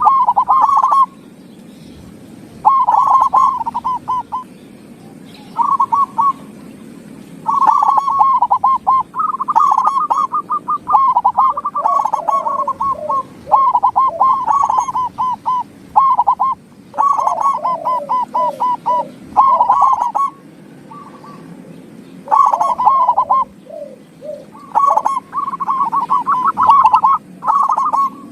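Zebra doves (perkutut) cooing: rapid pulsed runs of notes in bursts of a second or two, some overlapping, with short gaps between them.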